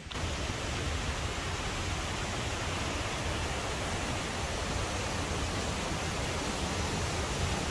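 Steady rush of a large waterfall: an even, unbroken noise with a heavy low rumble, cutting in abruptly at the start.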